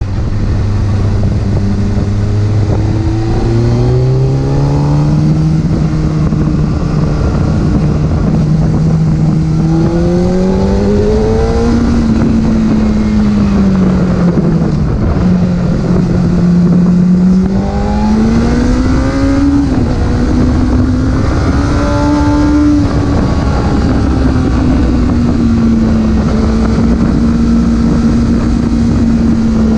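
Porsche engine pulling under throttle, its note climbing several times and dropping back as the revs change, then holding a steady pitch near the end.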